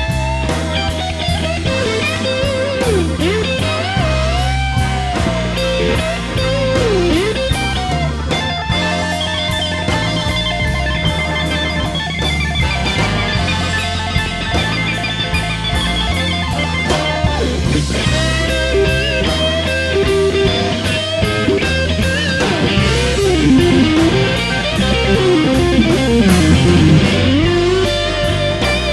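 Live band playing an instrumental break in a blues-rock style: a lead electric guitar bends and sustains notes with vibrato over bass and drum kit.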